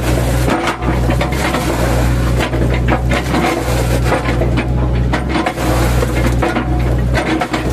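Mini excavator's diesel engine running steadily under load, with irregular cracking and knocking as its bucket chops a felled oil palm trunk into chips.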